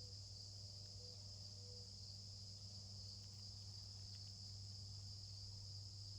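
Steady high-pitched insect chorus, continuous and unbroken, over a faint low hum.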